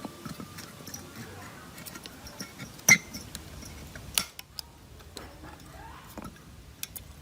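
Scattered light clicks and clinks from handling metal tools and parts on a workbench, with one sharp clink about three seconds in and another a little after four seconds.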